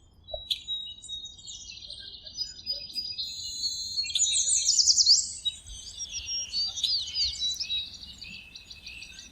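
Several birds chirping and singing at once: overlapping trills and quick rising and falling whistled notes.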